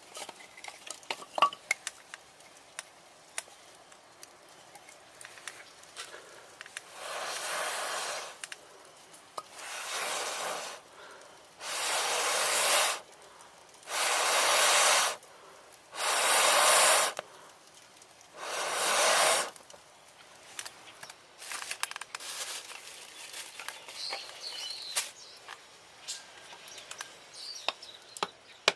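Six long blows of air through a fire-blowing stick into a campfire, each a rushing hiss that swells and fades, about every two seconds, with small crackling ticks in between. The blowing is feeding air to the fire to bring it up.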